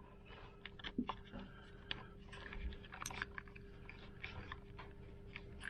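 Faint, irregular small clicks and rustles of electrical wiring being handled, over a faint steady hum.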